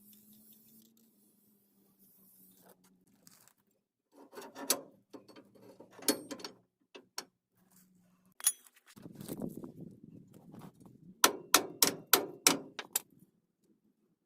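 Metal hand tools clinking and knocking against parts, with scattered sharp clicks and a quick run of about seven clicks near the end over a rough scraping noise.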